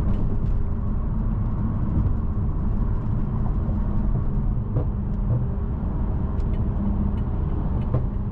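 BMW M550i's twin-turbo V8 running steadily at cruise, with road and tyre noise, heard from inside the closed cabin.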